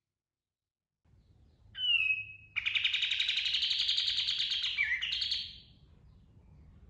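Kapas tembak (katem) bird singing: after about a second of silence comes a short sharp whistled note, then a rapid rolling trill lasting about three seconds that cuts off. A faint low hum sits underneath.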